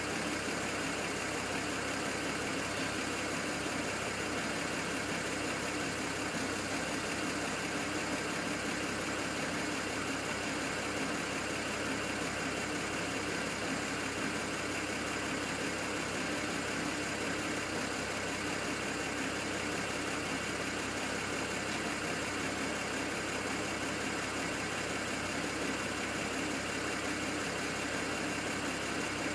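BMW 135i's N54 twin-turbo inline-six idling steadily, an engine that misfires at idle.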